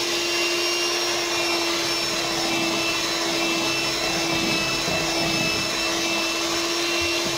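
Electric mixer running at a steady speed with an even motor whine, beating cheesecake batter as the eggs are worked in.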